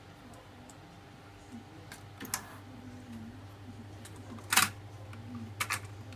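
Nakamichi RX-202 cassette deck's controls and tape transport clicking: a few sharp mechanical clicks, the loudest a double click about four and a half seconds in, over a steady low hum.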